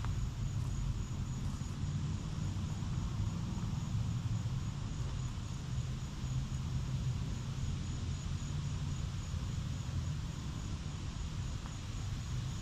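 Outdoor pond-side ambience: a faint, rapid, high-pitched insect trill over a steady low rumble.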